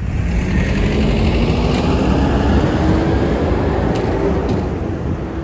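Transit bus accelerating past, its engine and drivetrain pitch climbing steadily. It grows louder towards the middle, then eases off as it moves away.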